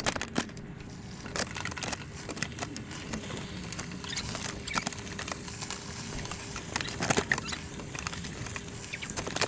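Chicken frying in hot oil: a steady sizzle full of small pops and crackles.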